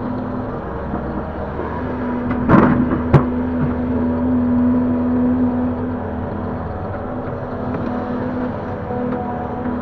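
Link-Belt 145X3E hydraulic excavator's engine running under working load, its steady hum strengthening for a few seconds, with a brief rush of noise and a sharp clank about two and a half to three seconds in.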